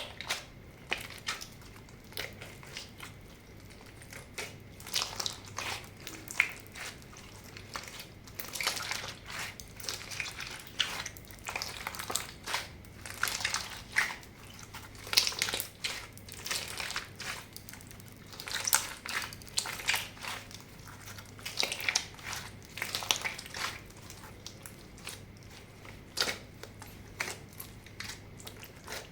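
Slime being kneaded and squeezed by hand, making irregular sticky clicks and crackling pops in uneven bursts.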